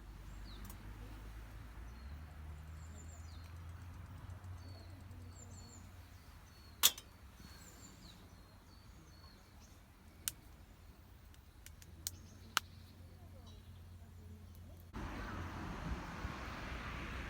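Outdoor ambience with faint bird chirps and four sharp clicks or snaps, the loudest about seven seconds in. About two seconds before the end, a louder steady hiss cuts in.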